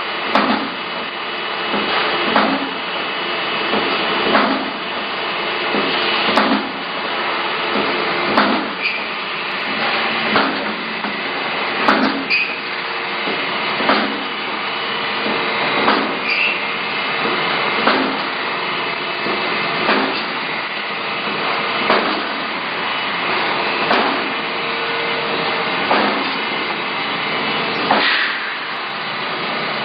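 Water heater tank production-line machinery running steadily, with a sharp metallic knock about every two seconds as the machine cycles.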